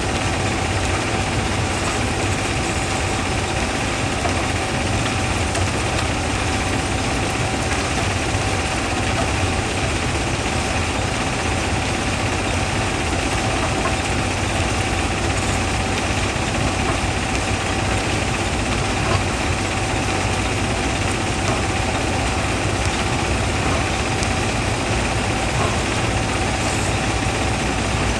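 Quarry primary jaw crusher running: a steady mechanical din with one constant whine through it and no separate impacts.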